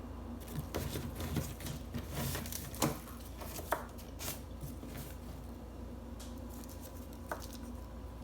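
Compressed laundry starch being crunched: a run of crisp crackles and sharp snaps, busiest in the first half, then only an occasional crackle.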